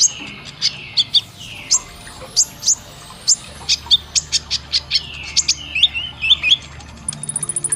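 Kolibri ninja (a sunbird) singing its sharp 'tembakan' phrases: a series of short, high chirps sweeping down in pitch, two or three a second, ending in a fast, very high trill near the end.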